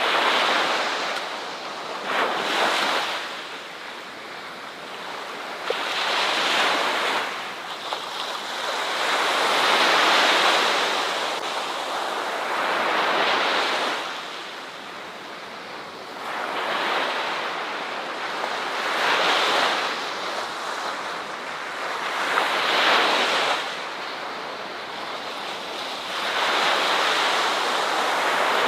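Ocean waves breaking and washing on a shore, each surge of hissing surf swelling and fading every three to four seconds.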